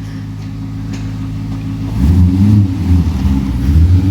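Car engine idling steadily, then about two seconds in it gets louder and revs, its pitch rising and falling.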